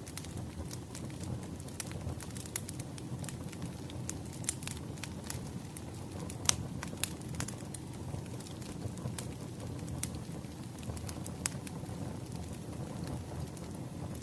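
Wood fire crackling: a steady low rumble of burning logs with scattered sharp pops and snaps, a few louder pops about halfway through.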